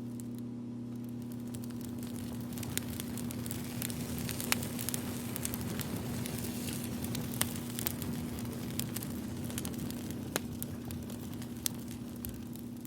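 Crackling fire, with scattered sharp pops about once a second over a soft hiss and a steady low hum.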